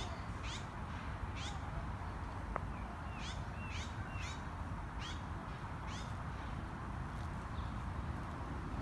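A small bird chirping over and over in short, high calls, about one or two a second, falling quiet after about six seconds, over a steady low outdoor rumble. One sharp click about two and a half seconds in.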